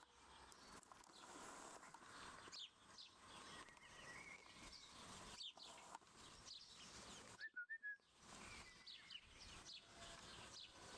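Faint outdoor ambience with small birds chirping: short, quick falling chirps scattered throughout, and a brief group of notes about seven and a half seconds in.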